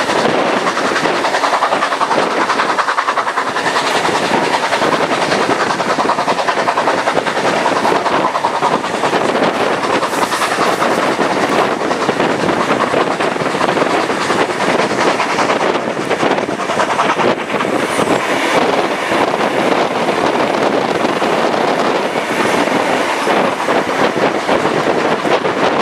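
A train in motion: steady, loud wheel-and-rail running noise with no break.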